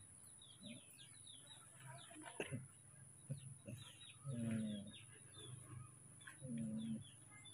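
Birds chirping faintly in quick falling chirps, with two short low coos about four and a half and six and a half seconds in.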